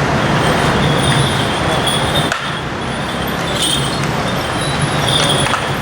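A vehicle engine running with a steady low hum, under dense, loud street noise.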